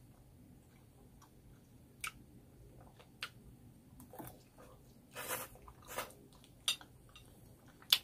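Close-up mouth sounds of a person eating spicy cheesy noodles: scattered wet smacks and clicks of chewing, a louder longer stretch as a mouthful of noodles goes in about five seconds in, and a single sharp click near the end.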